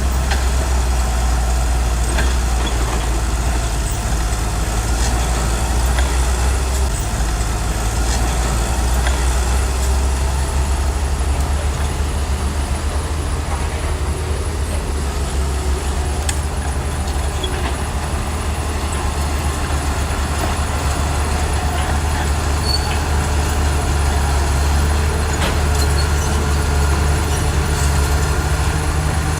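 Bulldozer's diesel engine running steadily with a deep, low rumble; its note shifts about seven seconds in.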